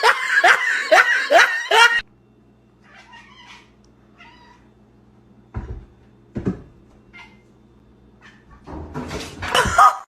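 A cat meowing loudly and rapidly, several short yowls a second, which cut off about two seconds in. After that there are faint sounds, two soft thumps, and a louder noisy burst near the end.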